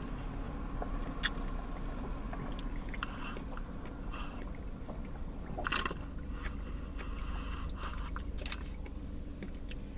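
Close-up chewing of a mouthful of blended watermelon boba tea, with a few short sharp clicks, over a steady low hum.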